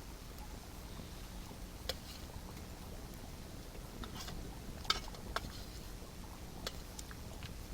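Wood campfire crackling: a low steady rumble with scattered sharp pops, a few seconds apart, the loudest about five seconds in.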